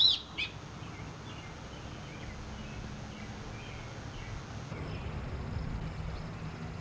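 Outdoor ambience: small scattered bird chirps over a low steady hum.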